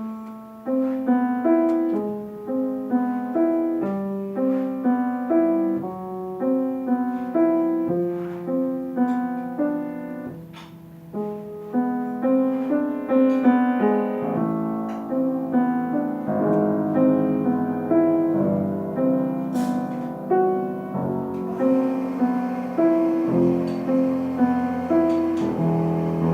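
Solo piano playing a steady flow of separate notes in repeating patterns. The playing thins and drops in level briefly about ten seconds in, then resumes with a fuller, denser texture.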